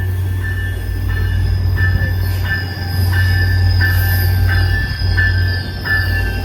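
EMD F40 diesel locomotive passing with its train, its engine giving a steady low drone, with a ringing tone repeating about every two-thirds of a second over it.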